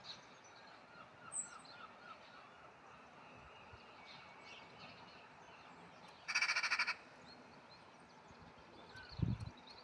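Wild birds calling faintly, with a run of quick repeated chirps near the start and a short, loud rattling call about six seconds in. A brief low thump comes near the end.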